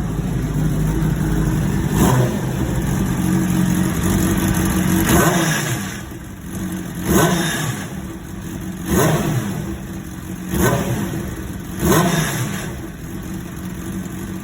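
Honda CBR600RR's inline-four engine idling, with short throttle blips about every two seconds, revved to show a strange noise the owner hears from it.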